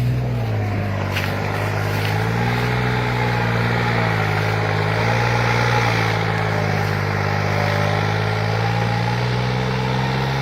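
New Holland tractor's diesel engine running under load while pulling a fully loaded trolley; its pitch drops about half a second in and then holds, wavering slowly up and down.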